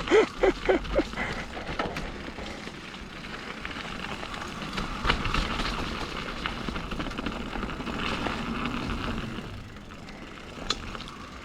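Mountain bike rolling down a rocky dirt trail: tyres crunching over dirt and rock with the bike rattling and clicking over the bumps. A few short squeaks sound in the first second.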